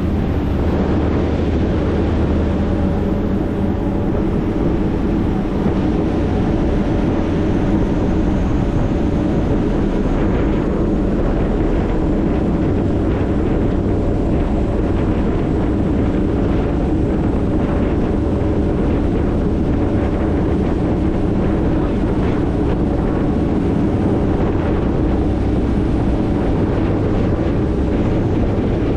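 High-speed passenger ferry's engines running steadily as it gets under way, a low hum with a few steady tones, overlaid from about ten seconds in by wind buffeting and rushing water.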